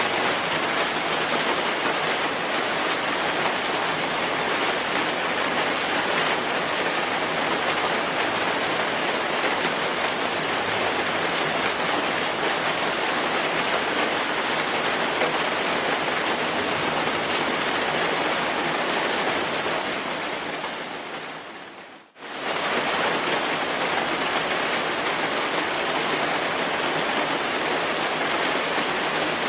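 Steady rainfall, an even hiss of drops. About three quarters of the way through it fades away to near silence over a second or two, then cuts straight back in, like the seam of a looped recording.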